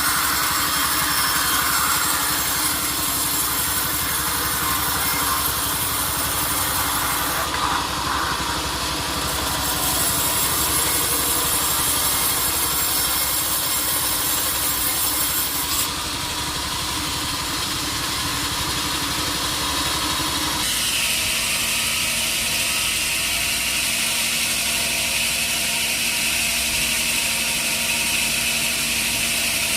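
Sawmill machinery running steadily while processing a teak log, with engine and saw noise. The sound changes abruptly about a third of the way in, again around the middle and again about two-thirds through.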